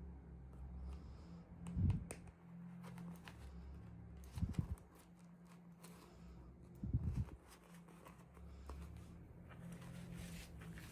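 Hands unpacking and handling toy packaging and small plastic pieces: light clicks and rustles, with three dull thumps about two and a half seconds apart, over a low hum.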